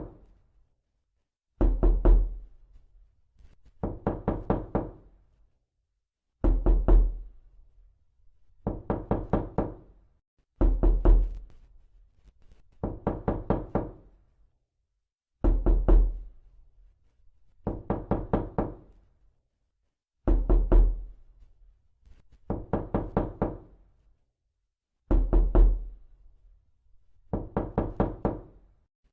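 Repeated knocking: a quick burst of about half a dozen knocks every two seconds or so, over and over, alternate bursts carrying a heavier low thud.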